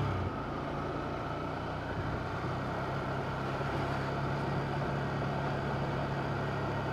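Ducati Monster 797's air-cooled L-twin engine running at a steady, unchanging pace with no revving.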